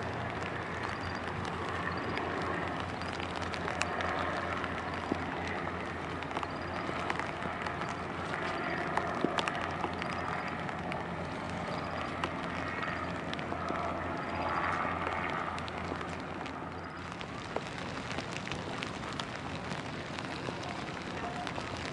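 Rain and wind on the microphone: a steady hiss with scattered sharp ticks of drops landing close by, over a low steady hum.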